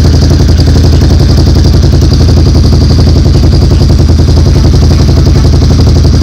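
ATV engine idling steadily through a Big Gun EVO R slip-on exhaust, loud and close, with an even rapid pulse. The slip-on joint has been clamped and sealed with high-temperature silicone, and no air is escaping from it: the exhaust leak is fixed.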